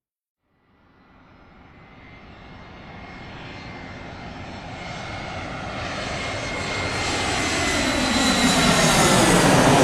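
Airplane approaching overhead: after a moment of silence its engine noise fades in and grows steadily louder toward a peak near the end, with a steady high whine running through it.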